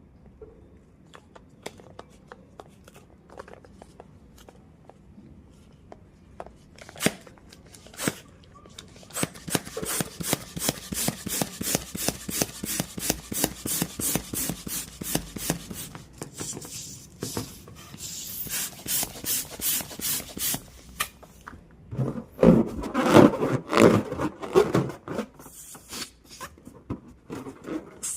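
Rubber balloon being handled and rubbed: a long run of quick rhythmic rubbing strokes, then a louder stretch of squeaky pitched sound a little after three-quarters of the way through.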